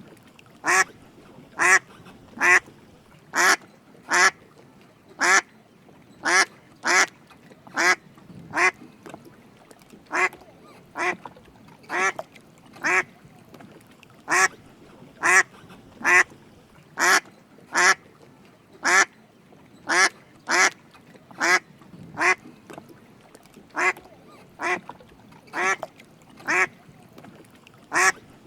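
Drake mallard quacking over and over, short raspy calls about once a second at uneven spacing, now and then two in quick succession.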